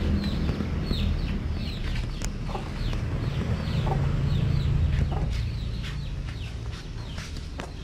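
Birds chirping: many short, high, downward-sweeping chirps, over a steady low rumble, with a few sharp clicks in the second half.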